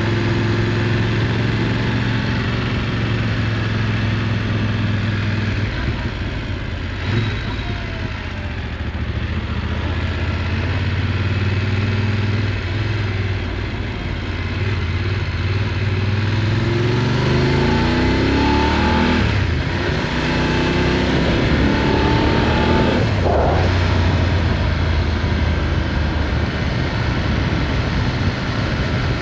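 Motorcycle engine running under way with a steady rush of noise; the engine note sinks near the middle, then rises twice in quick succession as the bike accelerates.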